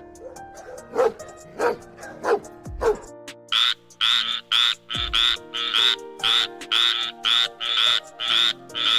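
A dog barks about four times, then a frog calls in a fast run of loud croaks, two or three a second, over background music.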